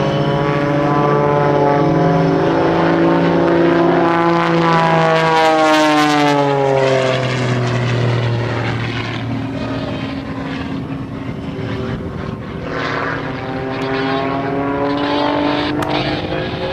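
Propeller airplane's engine droning as it flies past, its pitch dropping as it goes by about six seconds in. Another engine drone swells again near the end.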